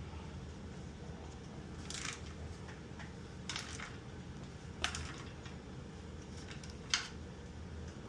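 Light metallic clicks and clinks, a few seconds apart, from engine and transmission parts being handled and fitted together, over a steady low hum.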